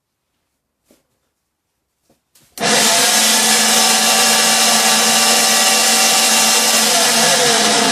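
Zelmer electric meat grinder starting after a few faint clicks and running loudly, a harsh grinding noise with a steady whine: the fault noise of a grinder that has suddenly turned noisy.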